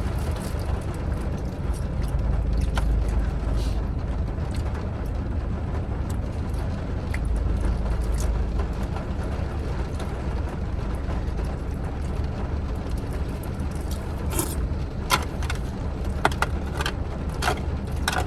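Steady low rumble like a vehicle idling, heard from inside, with a few sharp clicks and taps in the last few seconds.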